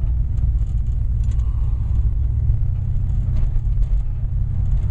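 A 1965 Ford Falcon's 289 V8 with a two-barrel carburettor running while the car drives along, heard from inside the cabin as a steady low rumble.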